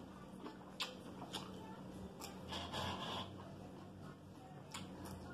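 Close-up eating sounds: chewing a crisp lettuce and cucumber salad, with a few light clicks of a metal fork against the bowl and a brief crunchy stretch about halfway through. A faint steady hum sits underneath.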